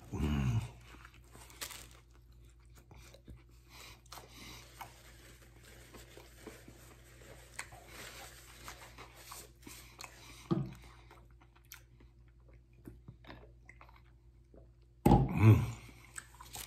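A man chewing and biting into a vegetable sub, with faint crunches and mouth sounds. Short low voice sounds come about half a second in and again, louder, near the end.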